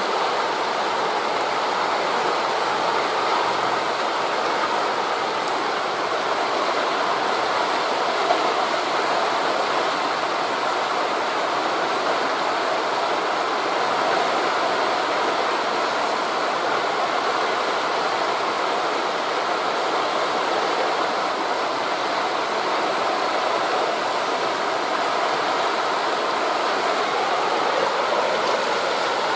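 Steady rushing of wind through forest leaves blended with distant waves breaking on a beach, an even, unbroken wash of noise.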